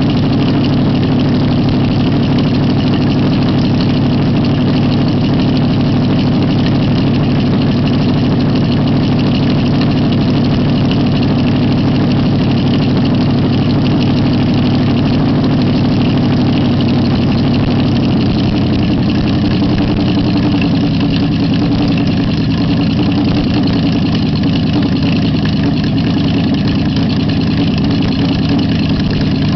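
Edelbrock-equipped Ford V8-60 flathead race engine running steadily at an even speed.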